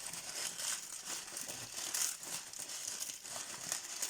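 Dried egg noodles being snapped and crushed by hand into small pieces: a continuous, irregular crackling and crunching.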